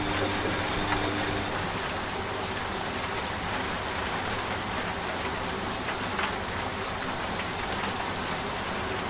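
Steady rain falling, with scattered drop ticks. A low machine hum, the washing machine in the mix, sounds under it and stops about a second and a half in.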